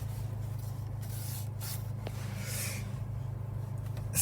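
Faint rubbing and rustling over a steady low hum.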